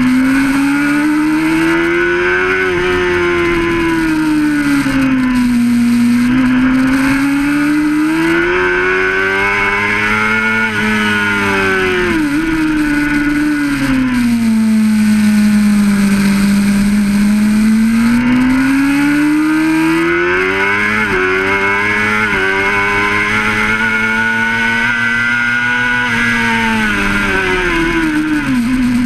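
600RR sport bike's inline-four engine running hard, heard from on board, its revs climbing and falling again and again over several seconds, with two quick sudden dips in pitch about 12 and 21 seconds in. A steady hiss of wind and road noise lies over it.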